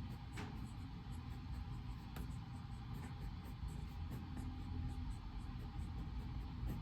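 Study-room background noise: a steady low rumble and hiss, with a few faint clicks, the clearest about half a second in and another about two seconds in.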